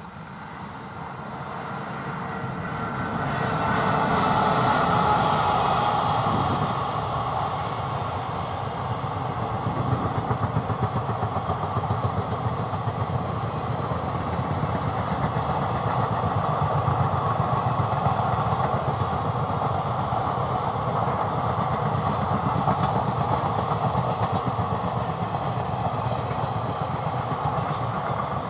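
Indian Railways WAG-7 electric locomotive passing, its sound swelling to a peak a few seconds in. A long rake of passenger coaches follows, rolling by with a steady, rapid clatter of wheels on the track.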